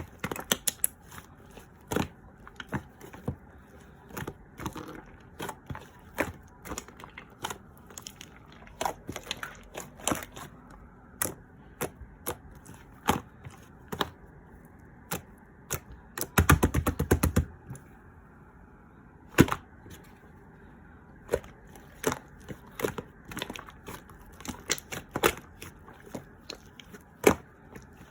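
Irregular crisp clicks and crackles at close range, a few each second. About 16 seconds in, a dense run of rapid clicks lasts just over a second.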